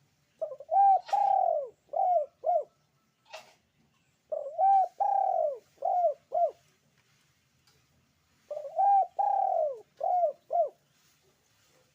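Puter dove cooing: three phrases, each a run of about five arching coo notes, with a pause of about two seconds between phrases.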